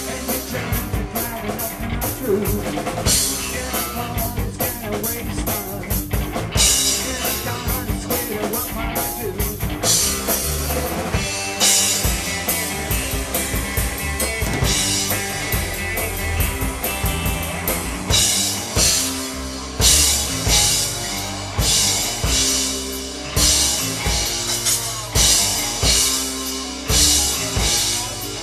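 Rock music driven by a drum kit with a strong bass drum, in a passage with no words, the hits falling about once a second in its second half.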